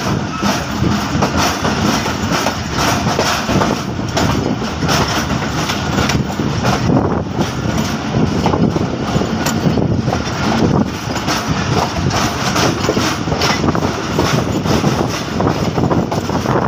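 A passenger train running at speed, heard from the open doorway of one of its coaches: a steady rumble and rattle of wheels on the rails and of the coach itself.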